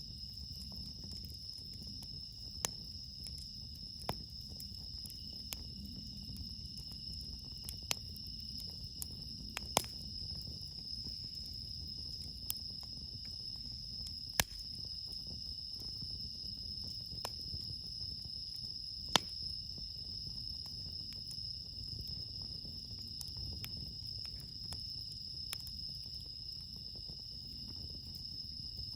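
A steady chorus of night-singing crickets, including bell crickets (suzumushi), with irregular sharp crackles and pops from a wood campfire every few seconds, the loudest pop about two-thirds of the way through.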